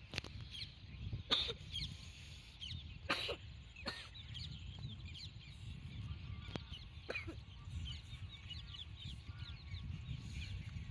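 Birds chirping continuously in short, rapid calls over a steady low rumble, with several sharp knocks in the first half.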